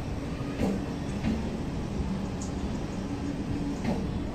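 Electric suburban local train (EMU) running past, a steady rumble and hum with a few sharp clacks from its wheels on the track.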